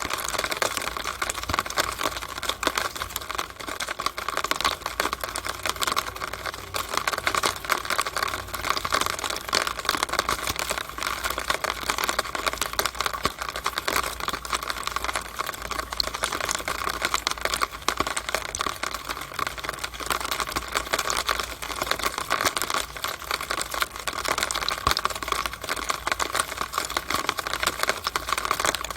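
Rainwater running down a downspout, a dense, steady stream of rapid drips and splashes ticking against the pipe.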